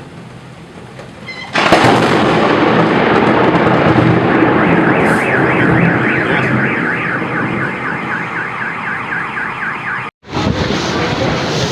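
A sudden very loud crack about one and a half seconds in, typical of a close lightning strike, followed by a loud continuous rumble and rushing noise. Over it a car alarm wails in a fast repeating chirp, until everything cuts off abruptly near the end.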